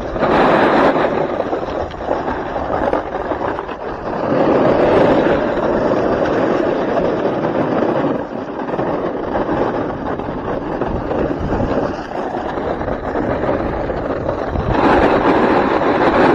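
Snowboard edges scraping and chattering over hard, icy snow, with wind buffeting the microphone. It is a loud, steady grinding hiss that swells louder three times, about half a second in, around four seconds in and near the end.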